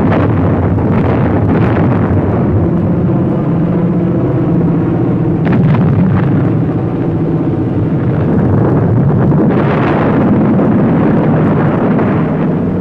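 Propeller aircraft engines droning steadily, with a few blasts from bombs hitting target ships.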